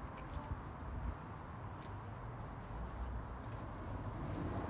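A small bird chirping in short, high notes that drop slightly in pitch, about a dozen of them in small clusters, over faint low background noise.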